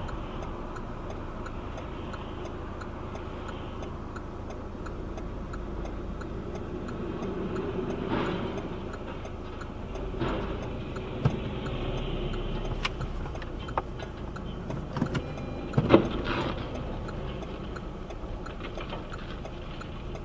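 A car's indicator (turn signal or hazard lights) ticking steadily in the cabin over the low hum of the engine and road. A few short knocks sound in between, the loudest about two-thirds of the way through.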